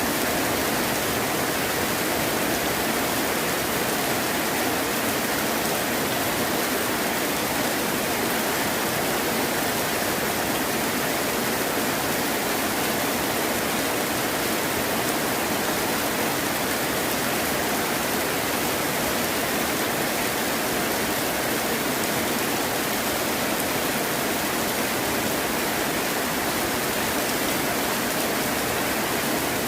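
Heavy rain falling steadily, a dense, even hiss with no thunder and no separate drops or crackles standing out.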